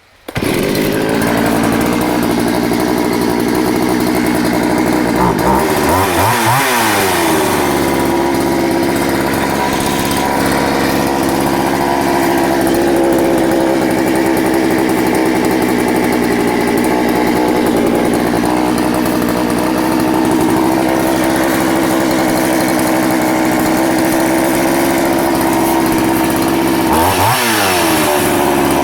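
Poulan Countervibe 3400 two-stroke chainsaw engine starting about a third of a second in, then idling steadily. Its pitch dips and comes back briefly around six seconds and again near the end. It keeps running while being tipped on its side, a check that shows no air leaks.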